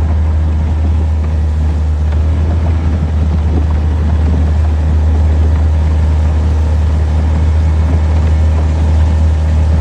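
Old Yamaha outboard motor running steadily under way, a constant low drone with no change in speed.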